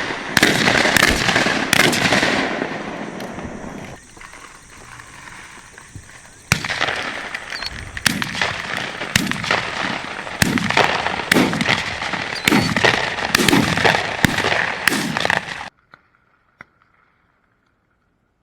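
Shotgun shots at doves, a dozen or so sharp bangs over about fifteen seconds, with a loud rushing noise between them. The sound cuts off abruptly near the end.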